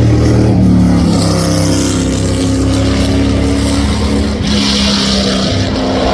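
A high-performance car engine running hard at high revs, its pitch holding fairly steady with small shifts. About four and a half seconds in, a steady hiss joins it.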